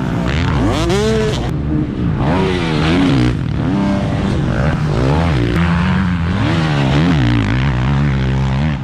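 Dirt bike engine revving on a motocross track, its pitch rising and falling over and over as the rider opens and closes the throttle.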